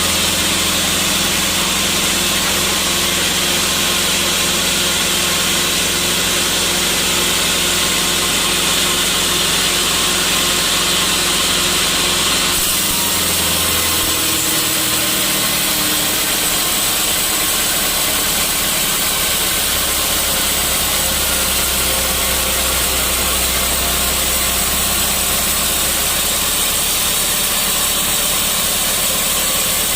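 Sawmill machinery running steadily, its sound changing about twelve to fourteen seconds in, when a low hum drops out and the high hiss eases, then a low hum comes back a few seconds later.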